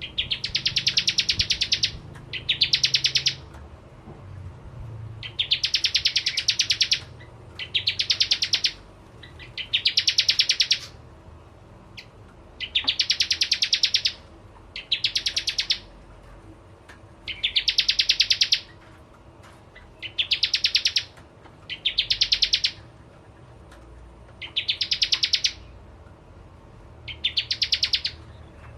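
Bar-winged prinia (prenjak jawa) singing: a high, fast trill, about a second long, repeated over and over, mostly in pairs, with short pauses between the pairs.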